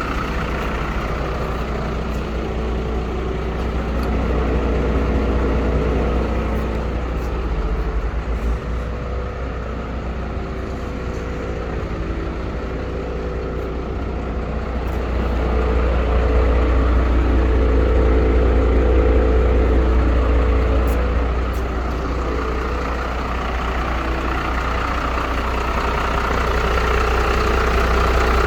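MAN 12.250 truck's diesel engine running steadily, swelling louder twice: a few seconds in and again past the middle.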